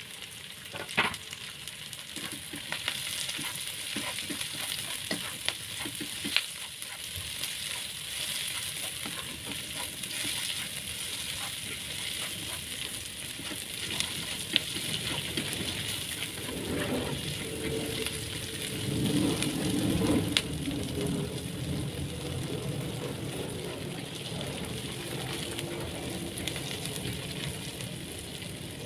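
Chilies, onion and ginger, with freshly added lime and bay leaves, sizzling as they fry in a pan while being stirred. There are a few sharp clicks of the utensil against the pan, and the stirring gets louder and rougher about two-thirds of the way through.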